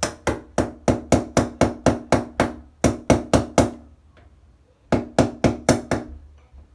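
Rapid tapping strikes chipping away grout packed tightly around a shower valve pipe, about four a second in three runs: a long run, a short pause, four more, then five more near the end. Each strike is sharp with a brief ring.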